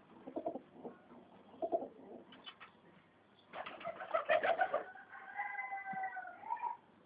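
Pigeons cooing in low, short pulses, with a few light ticks. About halfway through comes a noisy burst, then a held, higher squeaky call.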